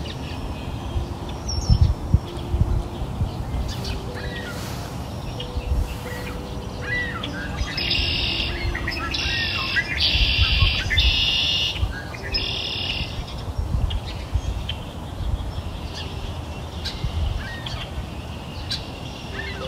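Birds singing: repeated chirps and trilled phrases, busiest about eight to thirteen seconds in, over a low rumble.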